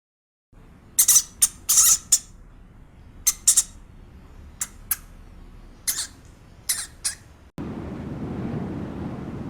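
Short, high-pitched squeaks from a young animal, a dozen or so in quick clusters. About three-quarters of the way through it cuts abruptly to steady wind noise on the microphone.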